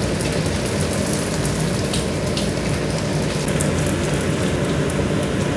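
Taro cakes frying in plenty of hot oil: a steady sizzle with many small crackles.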